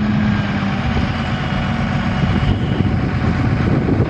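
Crane engine running steadily with a heavy low rumble while hoisting a roof truss.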